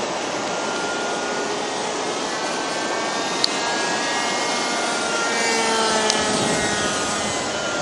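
Radio-controlled model airplane's engine whining in flight, its pitch sliding lower a few seconds in as it passes, over steady wind noise on the microphone.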